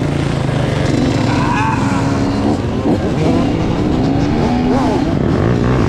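Dirt bike engines running and revving, their pitch rising and falling again and again.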